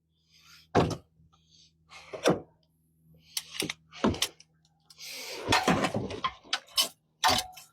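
Scattered knocks and clicks of metal hand tools and parts being handled while working on spark plugs, with a rough scraping, rustling stretch about five seconds in.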